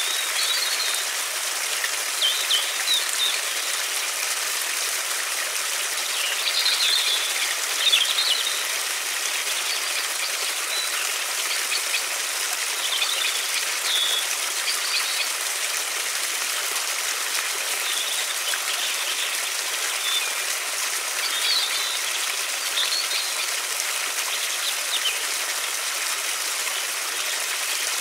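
River water flowing with a steady rushing hiss, while small songbirds chirp in short bursts every few seconds.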